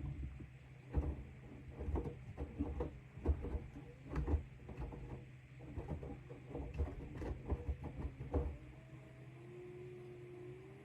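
AEG 8000 Series LR8FL160EX front-loading washing machine tumbling wet bath mats in its drum during the wash, with irregular thuds and knocks over a steady motor hum. Near the end the thuds stop and a faint rising whine is left.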